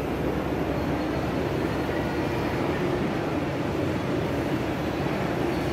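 Steady rumbling noise of a moving train, even throughout with no distinct knocks or horn.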